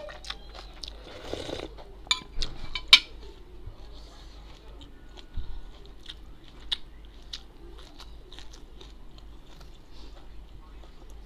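Close-up mouth sounds of a person chewing and crunching food, with a cluster of sharp crunches about two to three seconds in and softer chewing clicks after.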